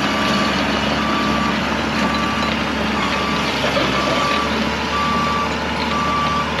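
Backup alarm beeping at about one beep a second over a diesel engine running steadily.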